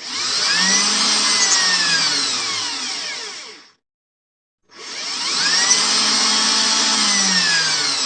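Electric drill run twice, each time spinning up with a quickly rising whine and then slowly winding down over about three seconds, with about a second of silence between the two runs.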